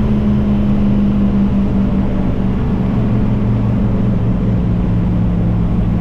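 Turbocharged LS V8 of a lowered OBS Chevy pickup running steadily, loud and low-pitched, its pitch easing down slightly.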